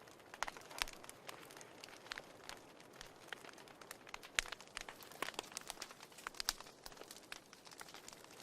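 Wood fire in a fireplace crackling, with a low steady hiss under many irregular sharp pops and snaps, a few of them louder.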